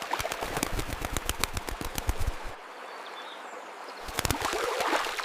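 A rapid flurry of sharp cracks and clicks lasting about two and a half seconds, then a quieter hiss, then a second shorter flurry near the end.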